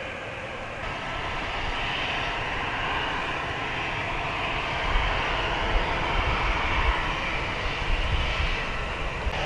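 Airbus A320 airliner's jet engines running on approach, a steady roar that grows louder, with a heavier low rumble from about halfway.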